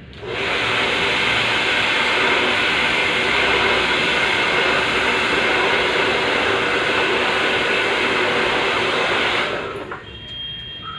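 Handheld hair dryer blowing steadily while hair is blow-dried: a loud, even rush of air with a faint motor hum. It comes on right at the start and cuts off sharply about a second before the end.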